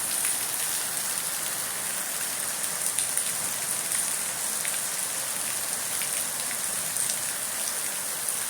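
Steady rain falling on surfaces, with scattered individual drops ticking through the hiss and a thin steady high-pitched tone behind it.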